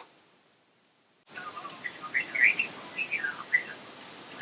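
Birds chirping in short, quick rising and falling calls over a steady hiss, which starts abruptly a little over a second in after near silence.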